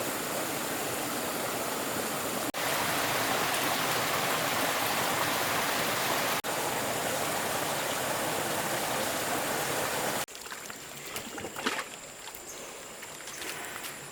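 Steady rush of running water, like a stream, with brief breaks at edits. About ten seconds in it cuts off suddenly to a much quieter outdoor background with a thin, steady high tone and a few light knocks.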